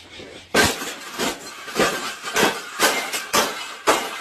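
A series of sharp clanks or knocks, about one every half second to two-thirds of a second, starting about half a second in.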